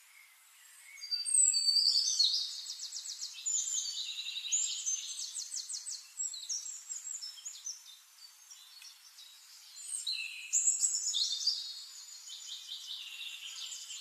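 Birds calling: rapid high-pitched trills and chirps in two bursts, one starting about a second in and one about ten seconds in, over faint background hiss.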